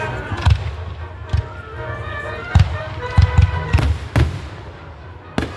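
Fireworks going off in a series of sharp bangs, one or two at a time at first, then several in quick succession from a few seconds in, over music playing.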